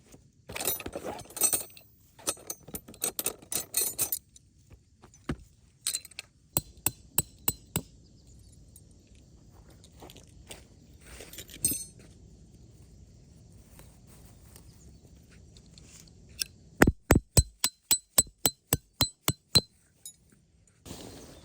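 Metal tent stakes being hammered into the ground: two runs of sharp, ringing metallic strikes, about three to four a second, the second run near the end louder than the first, with rustling of gear being handled in the first few seconds.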